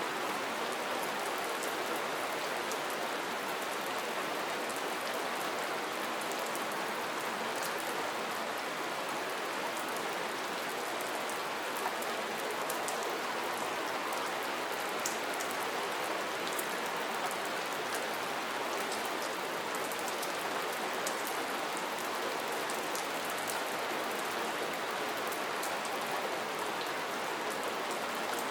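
Steady rain falling, with many small, sharp drop ticks scattered through it.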